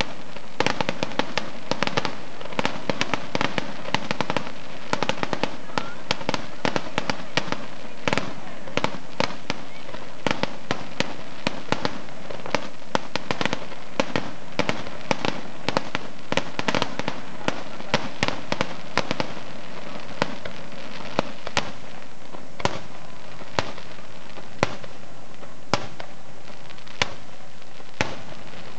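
Fireworks display: rapid, dense volleys of shell bursts and crackling reports, thinning after about twenty seconds to single bangs roughly once a second.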